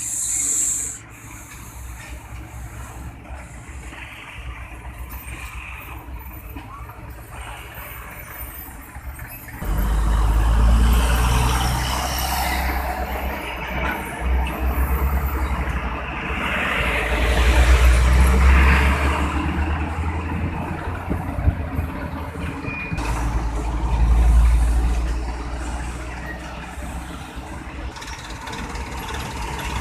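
Heavy diesel trucks at a road intersection: a short hiss of air brakes at the start, then from about a third of the way in the deep rumble of truck engines pulling through, swelling and fading as they pass.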